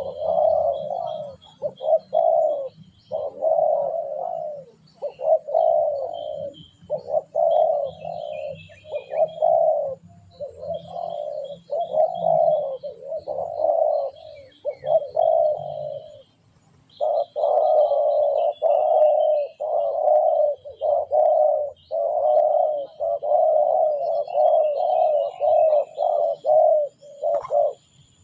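Spotted dove (tekukur) cooing, phrase after phrase in quick succession, with one break of about a second partway through. Small birds chirp faintly in the background.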